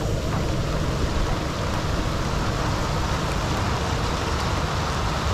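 Steady hiss of heavy rain falling on a flooded street.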